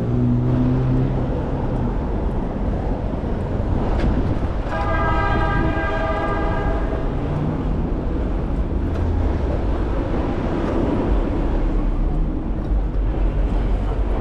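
City traffic rumbling steadily, with a vehicle horn sounding once for about two seconds in the middle; a low engine hum fades out in the first second or so.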